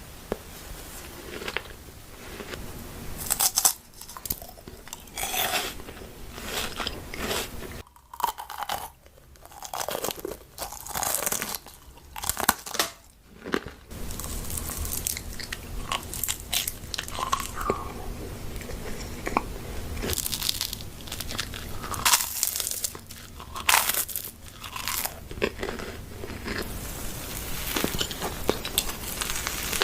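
A person biting and chewing crunchy food, with irregular crisp crunches throughout.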